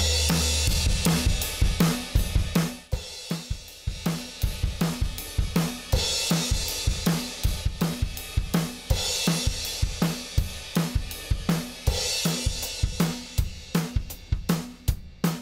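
Drum kit playing a steady beat: kick, snare and hi-hat hits several times a second, with a cymbal crash swelling about every three seconds.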